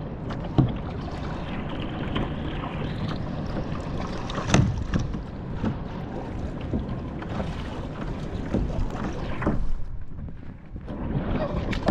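Kayak paddle dipping and splashing in the water, over steady wind noise on the microphone, with one louder splash about four and a half seconds in.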